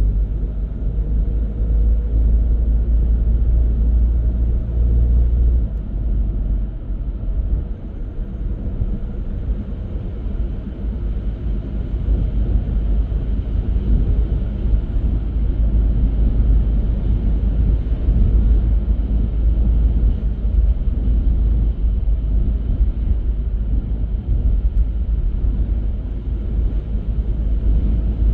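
Steady low rumble of a car driving on the road, a mix of tyre, engine and wind noise, easing briefly about seven seconds in.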